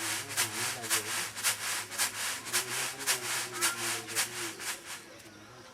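Rhythmic scraping strokes, about three to four a second, like something being rubbed or scrubbed by hand, with faint voices behind; the strokes stop near the end.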